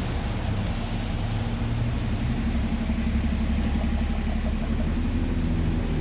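A road vehicle's engine running close by: a steady low hum that grows a little louder from about two seconds in.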